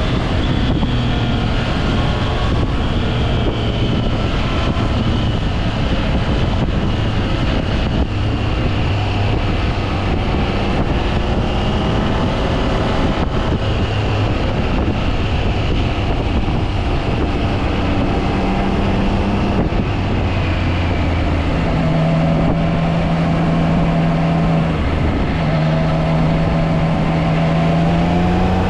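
Triumph Trident 660's inline three-cylinder engine running while the motorcycle is ridden, its pitch drifting up and down with the throttle, under heavy wind rush. From about 22 seconds in, the engine settles into a steadier, stronger note.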